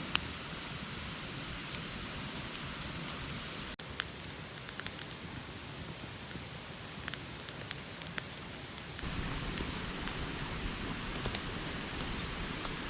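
A steady outdoor hiss with a scattered run of sharp crackles a few seconds in, changing abruptly twice.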